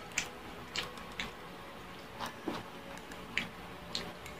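Close-miked eating sounds from someone chewing food: about seven short, sharp, crisp clicks spaced irregularly over four seconds.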